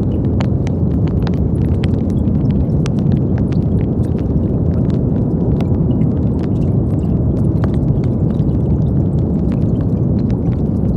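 Brown noise: a steady, deep rushing noise with most of its weight in the low end, unchanging throughout, with faint scattered clicks above it.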